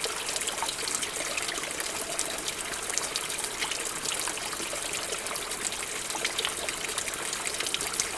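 A small stream trickling and babbling over stones, a steady rush with many small splashes and drips.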